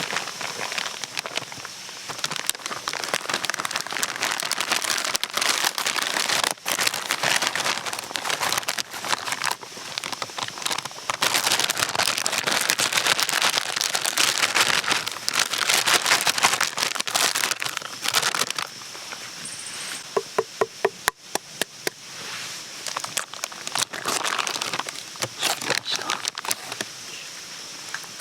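Wood campfire crackling and popping, with a quick run of clicks about twenty seconds in.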